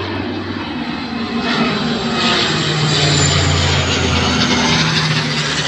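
Propeller or jet airplane flying low overhead, its engine noise growing louder over the first few seconds and holding, with a low steady hum, then cut off abruptly.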